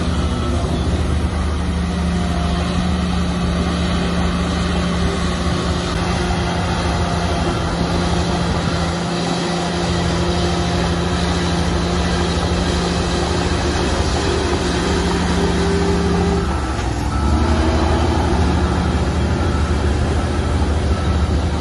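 Heavy diesel engine of earthmoving machinery running steadily under load. About three-quarters of the way through, the engine note dips briefly, then picks up again a little louder.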